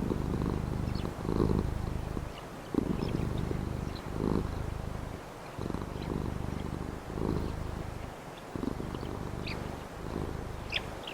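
Domestic cat purring close up, the purr swelling and easing with each breath about every second and a half. Faint bird chirps sound in the background, with a couple of brighter chirps near the end.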